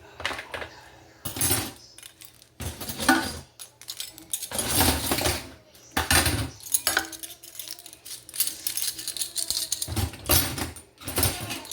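Dishes and cutlery clinking and clattering in irregular bursts as a dishwasher is loaded.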